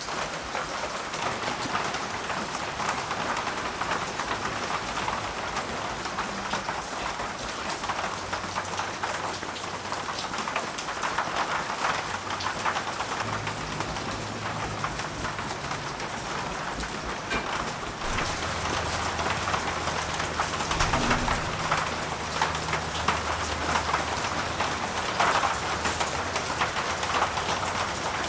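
Steel axe head being wet-sanded by hand with 1500-grit sandpaper: a continuous wet, scratchy rasp that swells and eases with the strokes, a little louder in the last third.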